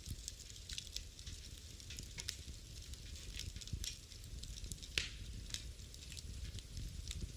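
Wood fire in a fireplace crackling, with irregular small snaps and pops over a low rumble of the flames, one sharper pop about five seconds in.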